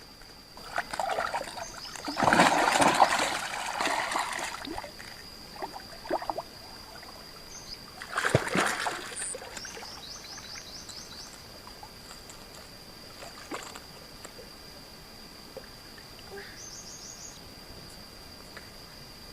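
Water splashing and trickling, a longer bout about two seconds in and a brief splash near the middle, over a steady high-pitched tone and two short runs of rapid chirps.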